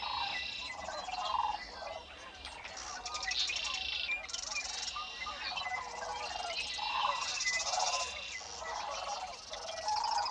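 Birds calling in a marsh: many overlapping, repeated buzzy trills, each paired with lower notes.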